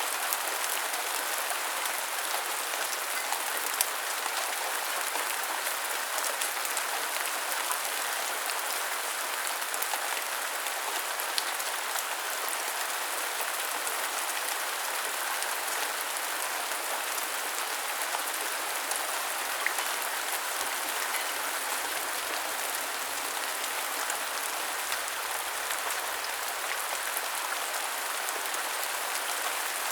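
Steady rain falling, an even hiss with many small drops ticking on hard surfaces.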